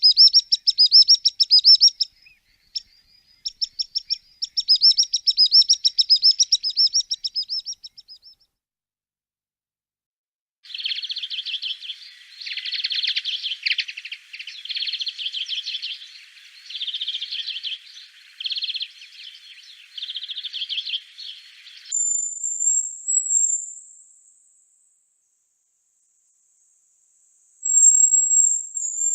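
Songs of three different songbirds, one after another with short silent gaps. First comes a fast, repeated run of high trilled notes for about eight seconds. Then a lower, busier warbling song runs for about eleven seconds, and near the end there are very high, thin, drawn-out notes.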